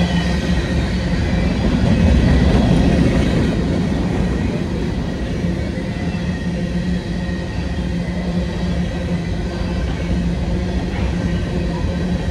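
Freight cars of a Canadian National freight train rolling past: a steady rumble of steel wheels on rail, swelling a little about two seconds in.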